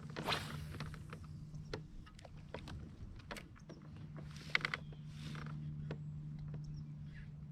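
Kayak on the water: scattered knocks and clicks against the hull, two short swishes and a faint creak over a steady low hum that drops out briefly about two seconds in.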